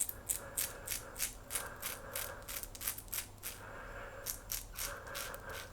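Quad edge safety razor scraping through lathered stubble in short, quick strokes, about four a second, with a brief pause about halfway through.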